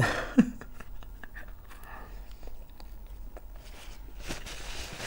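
Close-miked chewing and small wet mouth clicks while eating, with a short hum of the voice about half a second in. A little past four seconds, the rustle of a paper napkin as a hand is wiped.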